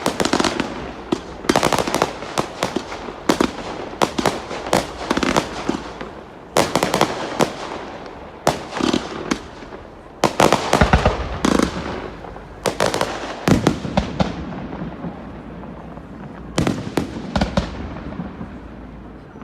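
Fireworks display: a rapid series of shell bursts and crackling reports, each bang followed by a rolling echo, with a heavier volley of deep booms about halfway through.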